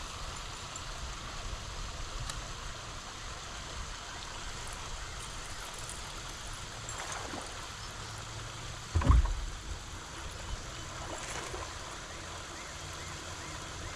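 Steady wash of water noise, with one heavy thump about nine seconds in.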